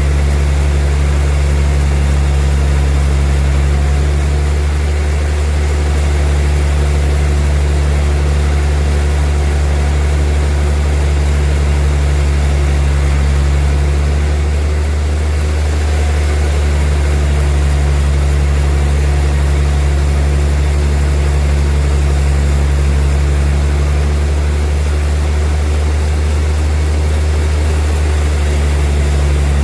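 Heavy sawmill machinery running steadily with a deep, even hum.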